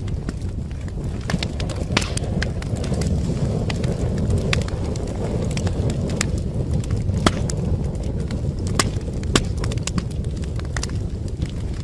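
Wood fire burning in a fireplace: irregular sharp crackles and pops over a steady low rush of flame, with a couple of louder pops about seven and nine seconds in.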